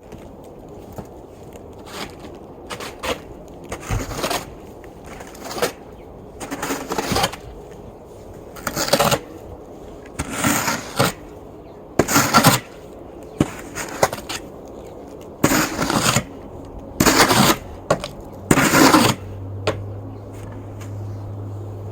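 Snow shovel scraping and pushing through wet, heavy snow on steps: a series of irregular scrapes, the loudest in the second half. A steady low hum starts near the end.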